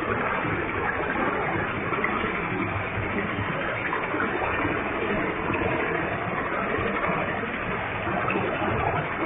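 Waterfall with a heavy flow of water, falling water crashing steadily.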